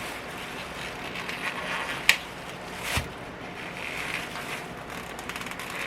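Handling noises from a package of ground beef being opened: light rustling with two sharp clicks, about two and three seconds in.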